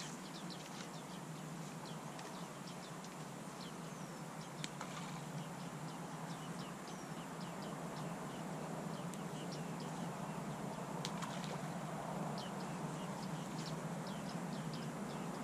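Birds chirping repeatedly over a steady background hiss in the open air, with a couple of faint clicks.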